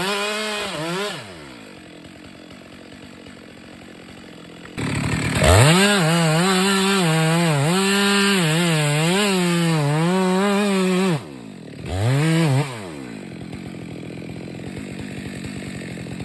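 Two-stroke chainsaw cutting a tree trunk at full throttle, its pitch dipping and recovering as the chain bites into the wood. It drops to idle about a second in, revs back up and cuts for about six seconds, then idles again after a brief rev.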